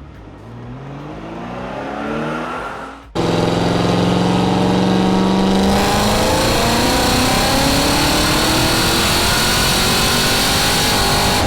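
Car engine revving with a rising pitch. About three seconds in it cuts abruptly to a much louder engine running hard under acceleration, its pitch still climbing slowly.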